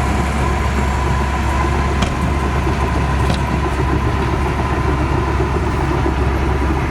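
Bulldozer's diesel engine running steadily: a deep, even rumble with a steady high tone over it, and two brief clicks about two and three seconds in.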